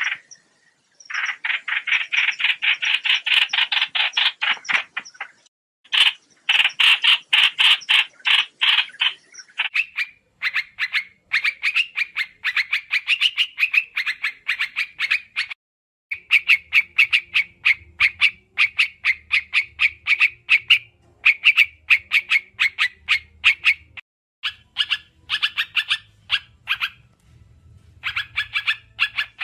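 Trao trảo bird calling as a trapping lure: fast, rhythmic chattering of short repeated notes, about eight a second, in runs of several seconds broken by brief pauses.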